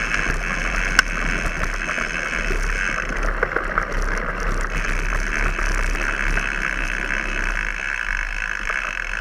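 Mountain bike being ridden on a dirt track: steady tyre and riding noise, with a sharp click about a second in.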